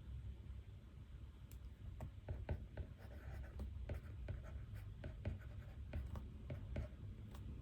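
Pen writing on paper: a run of short, irregular strokes and taps as notes are written by hand, over a steady low room hum.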